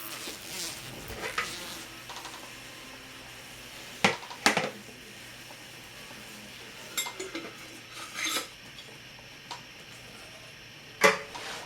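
Scattered sharp clinks and knocks of a glass jar being handled, the loudest pair about four seconds in and another near the end.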